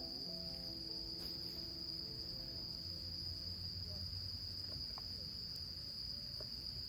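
Crickets trilling steadily at one high pitch, with soft background music fading out underneath.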